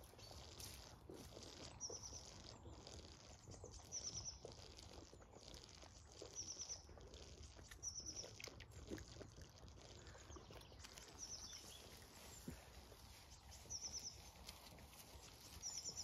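A small bird repeating a short, high chirp roughly every two seconds, faint against a quiet outdoor background.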